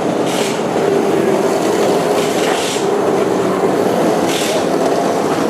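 Steady engine drone of nearby vehicles, with three short hisses about a second in, midway and near the end.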